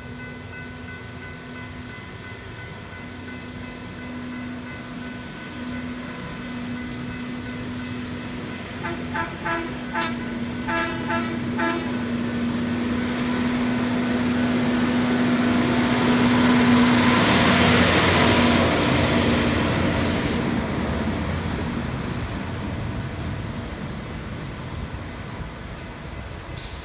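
Norfolk Southern maintenance-of-way equipment passing on the track. A steady engine drone and rail noise build to a peak about two-thirds of the way through and then fade, with a string of short horn toots partway in.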